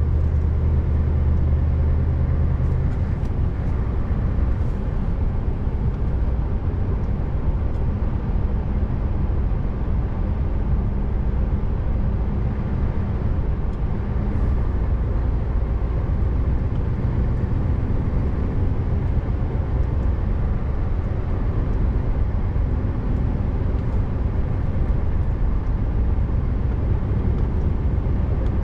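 Scania R590's 16-litre V8 diesel engine running steadily as the truck drives on, a continuous low drone with road noise. Its deep engine note eases about three seconds in.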